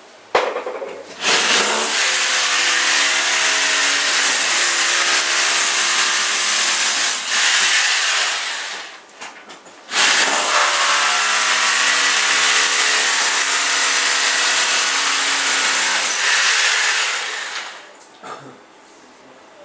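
Electric power saw cutting aluminium, run twice for about six to seven seconds each with a short pause between, the motor's steady whine under the hiss of the blade.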